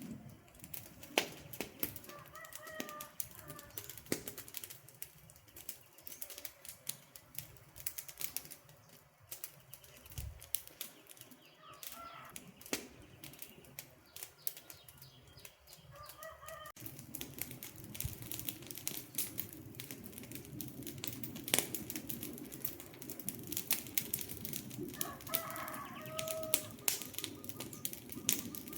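Wood campfire crackling, with irregular sharp pops and snaps throughout. A low rushing from the flames grows louder just past halfway. A few brief pitched chirps come through now and then.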